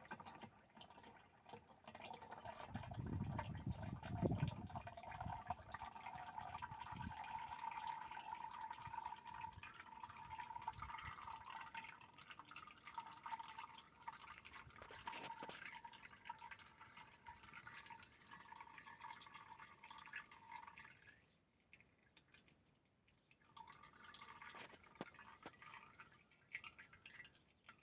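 Oil mixed with water draining from a tractor into a container: a steady trickling stream for about twenty seconds. The stream then stops and leaves a few scattered drips.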